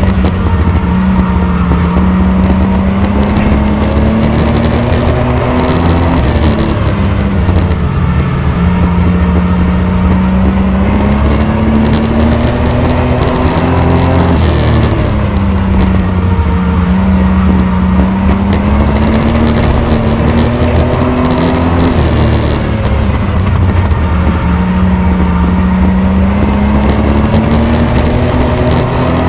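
Race truck's engine running hard in an oval-track enduro race, its pitch climbing and then dropping in a regular cycle about every seven to eight seconds, four times.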